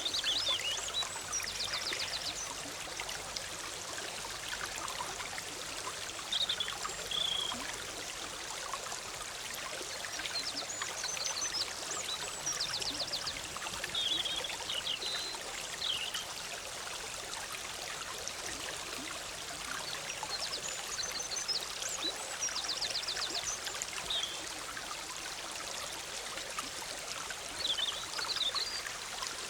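Forest stream bubbling steadily, with a small songbird repeating a short, high song phrase with a quick trill every several seconds.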